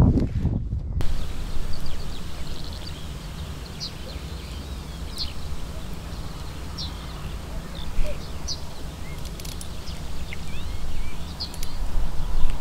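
Outdoor riverbank ambience: scattered short, high bird chirps over a steady low rumble. For about the first second there is close, muffled rustling and knocking as a sleeve brushes the microphone, and a single soft thump comes about 8 seconds in.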